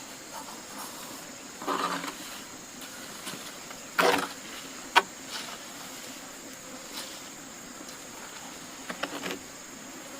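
A steady high insect drone with a few scattered knocks and rustles from handwork: a short bump near the start, a louder knock about four seconds in, a sharp click a second later, and a quick cluster of taps near the end.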